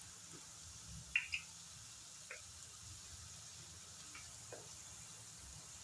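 Onion and green chillies frying gently in butter in a pan: a faint sizzle with a few scattered small pops, two sharper ones just over a second in.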